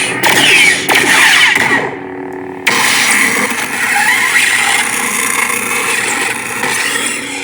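Custom lightsaber's speaker playing the Krayt dragon sound font: swooshing swing sounds over a low hum, then about three seconds in a sudden loud, sustained crackling effect that holds until near the end.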